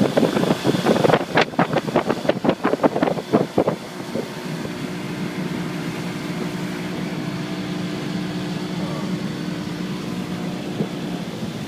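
Motorboat under way. For the first few seconds rapid slaps and splashes sound over the engine, then they stop and only the engine's steady hum remains.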